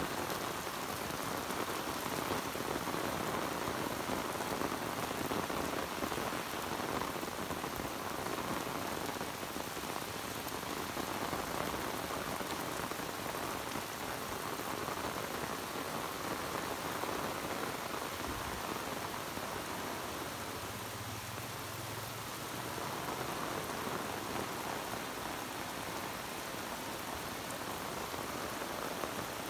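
Heavy tropical downpour: a steady, unbroken hiss of rain pouring onto grass, road and puddles.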